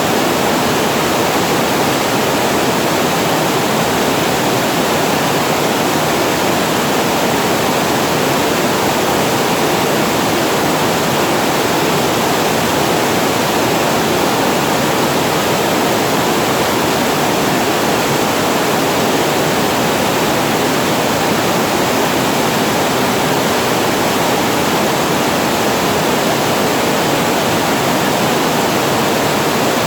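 Water pouring over a weir into a waterfall: a loud, steady, unbroken rush.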